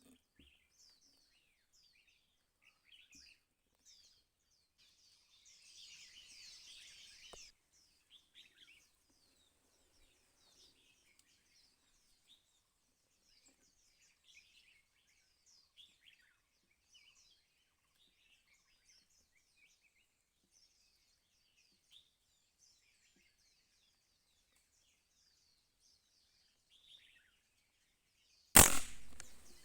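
Small birds chirping and twittering in many quick, high, falling notes throughout. Near the end a single loud gunshot cracks out and dies away within about a second.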